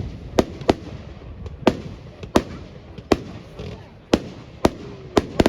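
Fireworks going off in a display: sharp bangs at irregular intervals, about nine in all, with a quick run of them near the end.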